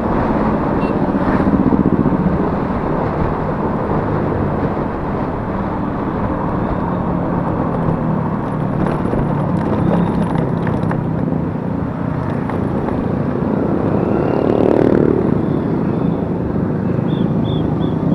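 Yamaha Mio S 125 scooter's single-cylinder engine running steadily while riding, with road noise; the engine note swells and rises briefly about fifteen seconds in.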